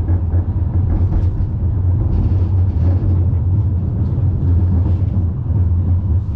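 Steady low rumble inside a moving tram.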